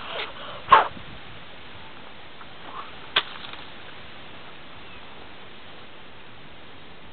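Firewood being chopped by hand: two sharp chopping blows, the louder one about a second in and a second one about three seconds in, followed by steady background hiss.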